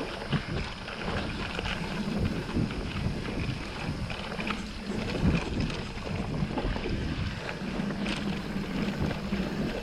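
Mountain bike riding along a dirt woodland trail: the tyres rolling over the ground, with frequent small clicks and rattles from the bike and a steady low hum, plus wind on the microphone.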